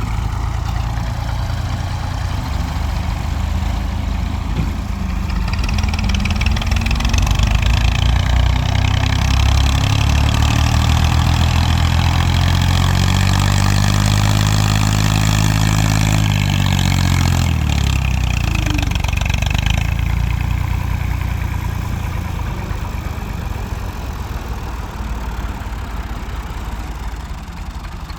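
Massey Ferguson tractor diesel engine running: it revs up over several seconds, holds high revs, then drops back to a lower speed a little past the middle and runs on more quietly.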